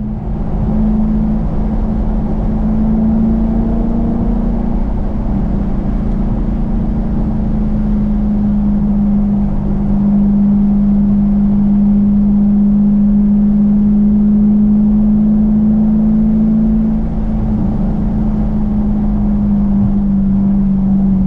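Dodge Challenger's exhaust droning at a steady pitch while cruising, easing slightly lower in pitch near the end.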